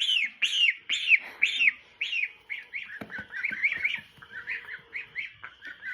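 Geese calling in a rapid series of high, falling peeps, about two to three a second, loudest at first and then a little softer.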